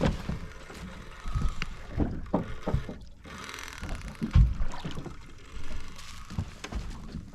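Knocking and thumping aboard a small fishing boat at sea, with irregular low thuds throughout. There is a brief hiss of water about three seconds in.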